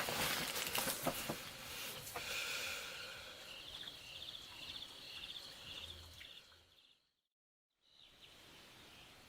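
Insects trilling in short, evenly repeated pulses, with a few knocks and rustles in the first couple of seconds. The sound cuts out completely for about a second, then comes back as a faint steady high hiss.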